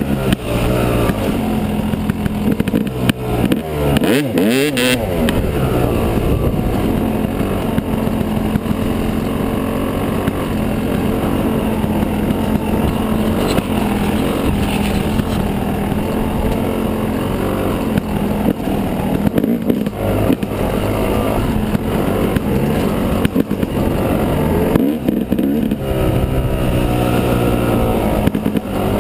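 Yamaha 250 dirt bike engine running under way, its pitch rising and falling as the throttle is worked, with quick revs a few seconds in and again near the end.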